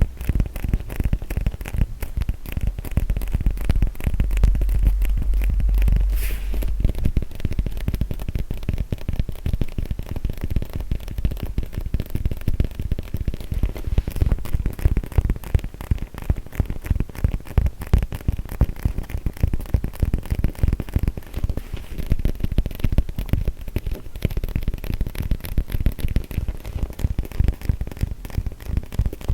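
Rapid tapping and scratching on a foam yoga mat: a dense, unbroken run of quick small hits. A heavier, deeper stretch comes about four to seven seconds in.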